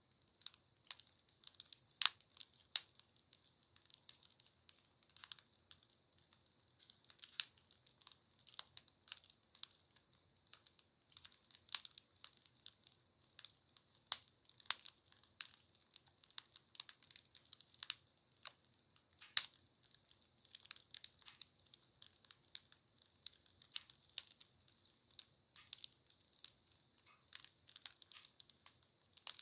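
Wood fire crackling: irregular sharp pops and snaps, a few much louder than the rest, over a steady high hiss.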